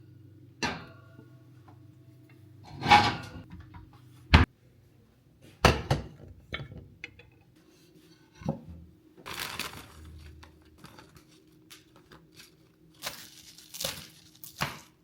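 Household handling sounds: a string of separate knocks, clinks and rustles, like dishes and packaging being set down and moved, the sharpest knock about four seconds in, over a low steady hum.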